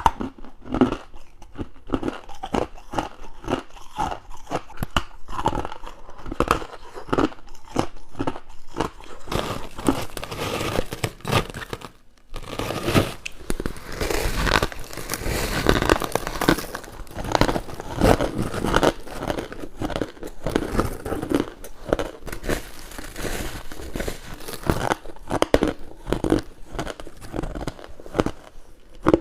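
Close-up crunching of ice and frost being bitten and chewed: a rapid run of crisp, crackling crunches, with a brief break about twelve seconds in and denser crunching after it.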